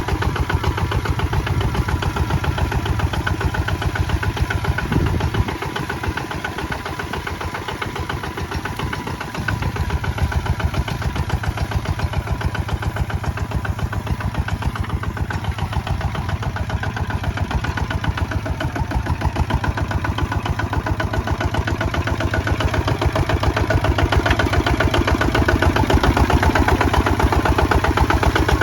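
Kubota ZT155 two-wheel tractor's single-cylinder diesel engine chugging steadily while plowing. It goes softer for a few seconds about a fifth of the way in, then louder again, and grows louder near the end.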